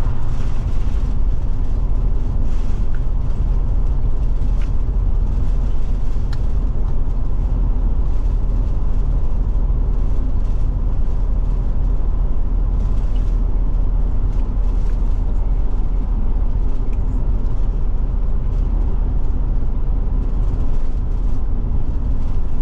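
Steady low rumble of engine and road noise inside a Forest River Forester motorhome's cab while it drives along a highway, with a few faint ticks.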